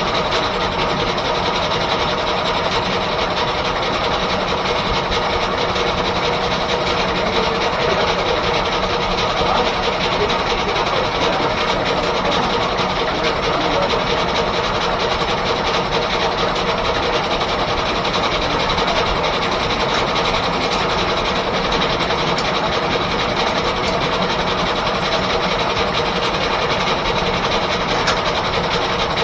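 1880s R.R. Howell left-hand circular sawmill running under steam-engine power: a loud, steady mechanical clatter that holds unbroken throughout.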